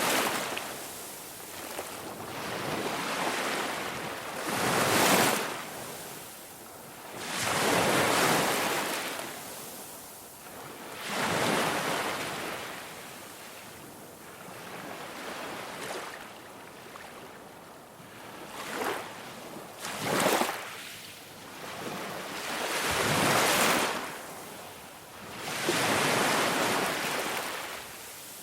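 Ocean waves surging in and washing back, a rush of surf that swells and fades every few seconds.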